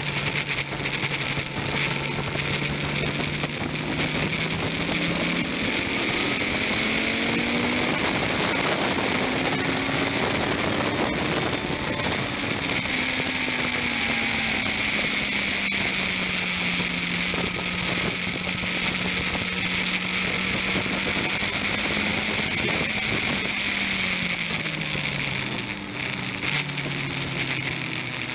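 Racing motorcycle engine heard onboard, accelerating hard up through the gears, holding at speed, then dropping in pitch in steps through downshifts near the end. A strong rushing hiss of wind and rain on the microphone runs under it.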